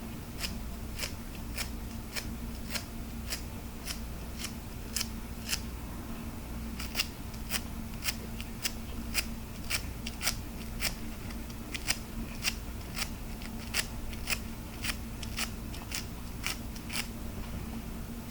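Crisp, separate clicks on hard plastic, about two to three a second and unevenly spaced, over a steady low hum.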